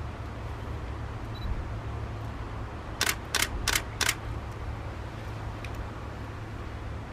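A camera shutter firing four times in quick succession, about three per second, over a steady low rumble.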